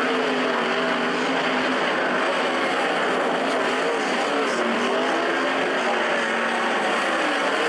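A field of 360 sprint cars with 360-cubic-inch V8s racing on a dirt oval. Several engines run at once as one steady blend, their pitches wavering slightly up and down as the cars circle the track.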